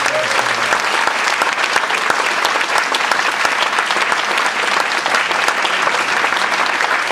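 Banquet audience applauding: many people clapping steadily and loudly.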